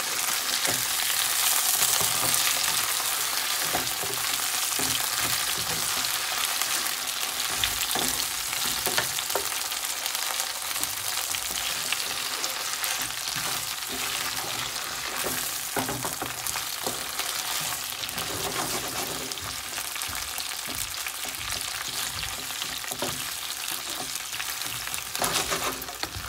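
Raw potato chunks and browned onions sizzling steadily in hot oil in a pan, while a wooden spatula stirs and turns them with scattered scrapes and knocks against the pan.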